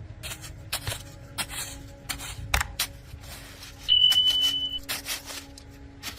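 Clicks and knocks of tools and small parts being handled during a kettle repair, with one steady high-pitched beep lasting just under a second about four seconds in.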